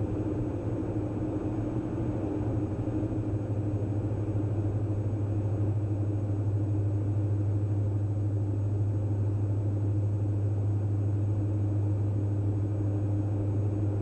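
Steady drone of a Diamond DA42 NG's twin turbodiesel engines and propellers in cruise, heard from inside the cockpit as an even, deep hum that doesn't change.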